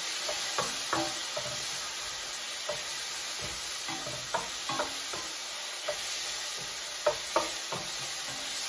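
Chopped garlic, tomato and onion sizzling in oil in a stainless steel sauté pan, with a metal slotted spoon clinking and scraping against the pan as they are stirred. The sharpest clinks come about a second in and about seven seconds in.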